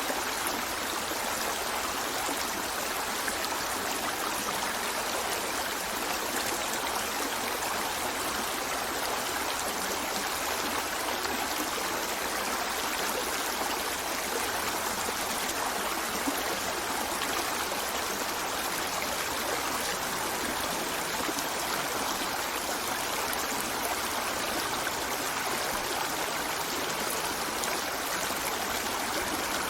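A river flowing steadily over rocks, an even rushing and babbling of water.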